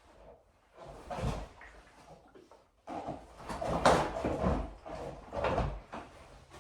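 Irregular clunks, knocks and scuffs of a rider climbing onto a parked snowbike and setting his boots on the footpegs, in a few bursts and loudest about four seconds in.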